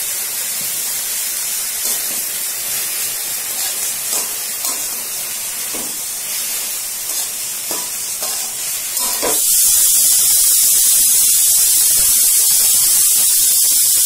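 Dhekia (fiddlehead fern) greens sizzling in hot oil in a wok while a steel spatula stirs and scrapes them, with light knocks every second or two. About nine seconds in the hiss jumps louder and steadier.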